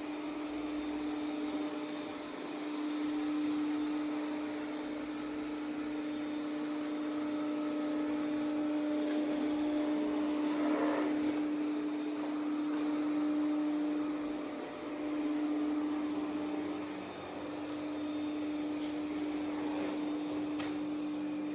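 ECOVACS DEEBOT T50 Pro robot vacuum running: a steady motor hum over suction noise. The sound swells and dips a little now and then.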